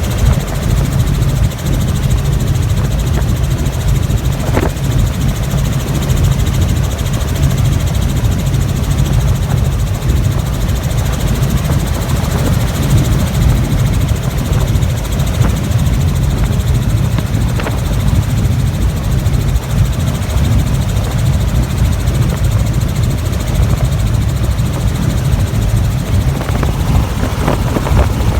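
Helicopter engine and rotor noise, a loud steady drone with little change.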